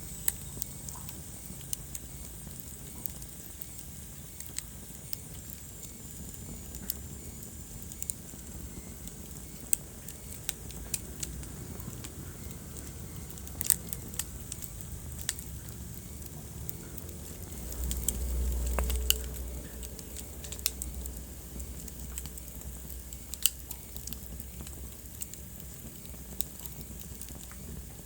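Wood fire burning in a fireplace, crackling with scattered sharp pops over a low steady rumble. A faint high wavering whistle runs through the first several seconds, and the low rumble swells briefly about eighteen seconds in.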